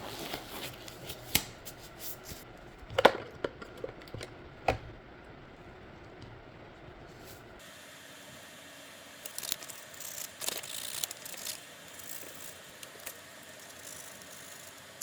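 Faint handling noises from a plastic toy book being handled: scattered clicks and knocks in the first few seconds, then, after a cut about halfway through, a cluster of small clicks and rustles.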